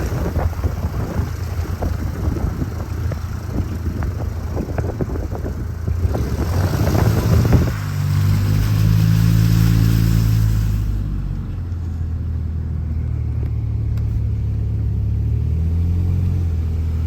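Car driving through floodwater. For the first half there is a crackly rush of water spray and wind noise; about halfway through it gives way to the car's steady low engine hum.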